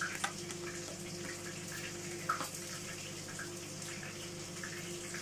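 Steady sizzling of chicken frying in butter in a pan, with a steady hum under it. A few light clicks of a metal spoon against a plastic sour cream tub come near the start and again about two seconds in.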